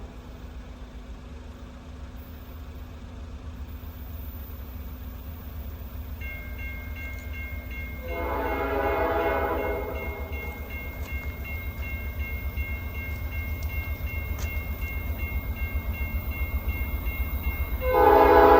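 Norfolk Southern diesel freight locomotive sounding its air horn: one blast about eight seconds in lasting around two seconds, and another starting near the end, over the steady low throb of the diesel engine. A thin, steady high tone runs through the second half.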